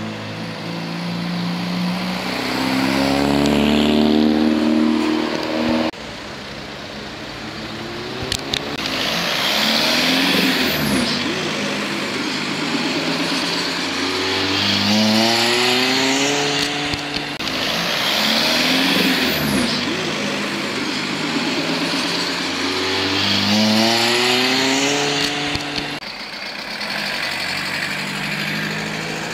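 Modified car engines accelerating hard one after another, each engine's note rising sharply in pitch as it revs up, about five times. There is a sudden break about six seconds in, and a few sharp cracks follow shortly after.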